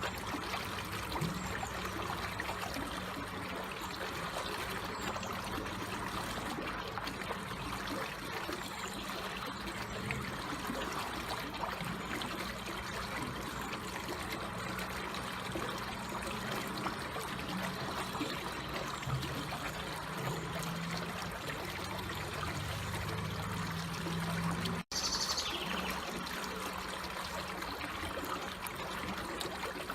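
Water trickling and flowing steadily in a small stream, an even running sound. About 25 seconds in, the sound cuts out for an instant and a short falling whistle follows.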